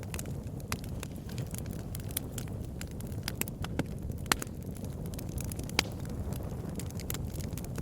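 Campfire burning: a low steady rumble with scattered sharp crackles and pops of the burning wood, two louder pops standing out about four and six seconds in.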